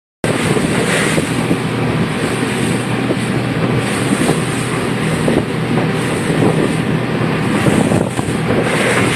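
A boat's engine running steadily under loud wind buffeting the microphone. It starts abruptly and cuts off at the end.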